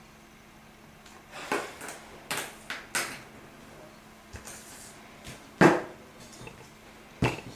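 Small metal engine parts, piston, rings and piston pin, being handled and set down on a workbench: a string of sharp clinks and knocks, the loudest a little past halfway through.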